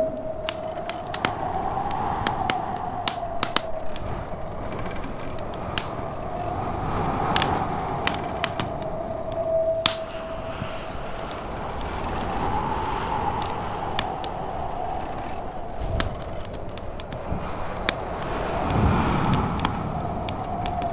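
Wood fire crackling in a fireplace with frequent sharp pops, over snowstorm wind howling in a wavering tone that rises and falls.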